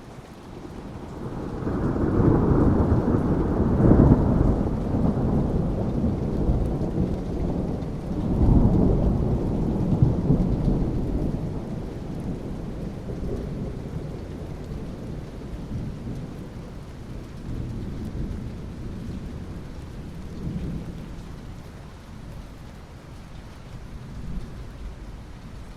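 Thunder rumbling over steady rain. A long, deep roll builds about two seconds in and swells again around eight seconds, then slowly fades, leaving the hiss of the rain.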